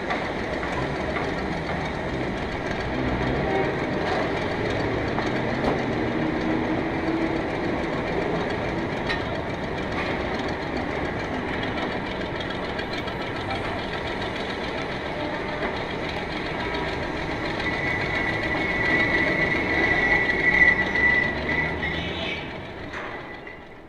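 Train running on rails with steady wheel clatter. A high squeal rises near the end, then the sound fades out.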